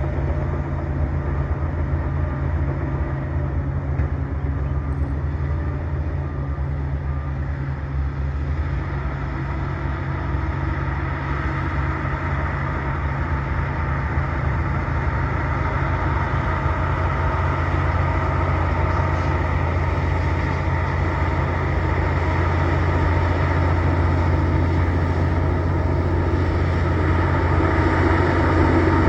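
Bulldozer's diesel engine running steadily, growing gradually louder toward the end.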